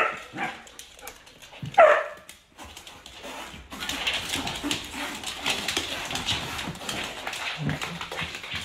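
A dog vocalizing: a short yelp at the start and one whine falling in pitch about two seconds in, followed by a steady, fainter noisy background.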